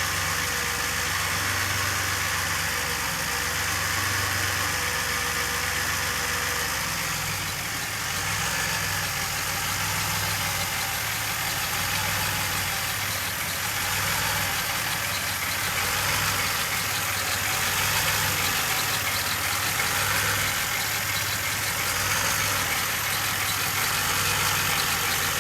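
DeLorean DMC-12's PRV V6 engine running at a steady idle shortly after a cold start. The engine has a cold-start fault: it dies unless held on a little throttle until it warms up.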